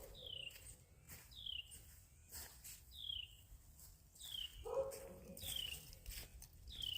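A bird repeats a short, high, downward-slurred chirp about once a second. A dog gives a single short bark or whine about two-thirds of the way through, among scattered faint knocks.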